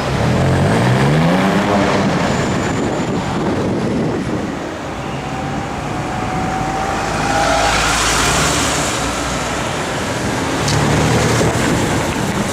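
BMW M4 Coupe with an iPE exhaust accelerating, its engine note rising steeply in pitch during the first two seconds, then city traffic noise; a lower, steady engine sound returns near the end.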